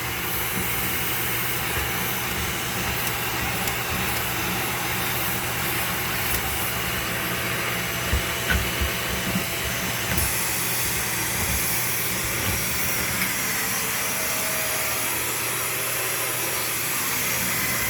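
Vacuum cleaner running steadily, sucking air through a long flexible dryer-vent cleaning hose pushed up inside a dryer vent. There are a few low thumps around the middle as the hose is moved around in the duct.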